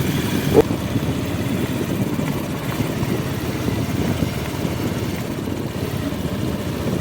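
Motorcycle engine running at a steady speed while riding along the road.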